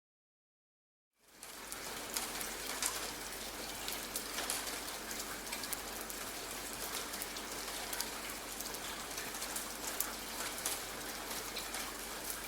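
Silence for about a second, then steady rain: a dense patter of small drop ticks over an even hiss of falling water.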